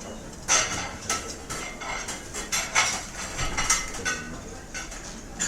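Restaurant ambience: cutlery and dishes clinking and clattering in a busy run of sharp strikes over a steady background hubbub, loudest about half a second in.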